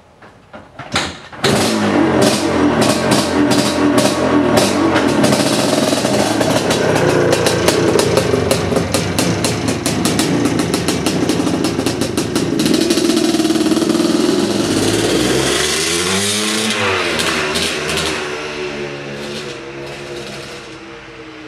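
1979 Yamaha IT400's two-stroke single-cylinder dirt bike engine catching after a few short bursts about a second in, then running loudly with sharp, rapid exhaust pops and revving. Near the end the engine note rises and falls and then fades away as the bike rides off.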